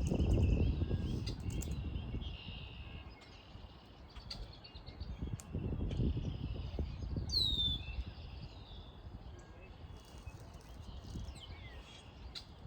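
Small birds chirping and calling, with one clear downward-sliding whistle about seven seconds in, over an uneven low rumble of wind on the microphone.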